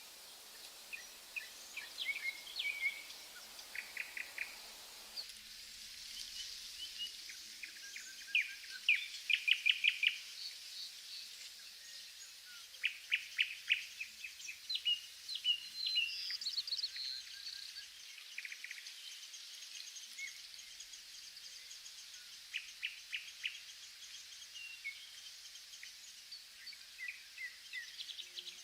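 Several birds singing and chirping, with quick repeated trills and short calls, over a steady high hiss of insects or background noise.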